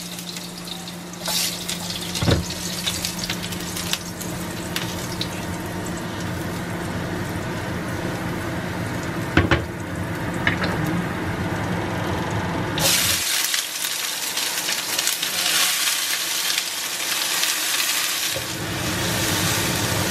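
Chopped garlic sizzling in oil in a frying pan, with a few light knocks. About two-thirds of the way through, the sizzle turns brighter and louder as sliced onions fry with the garlic.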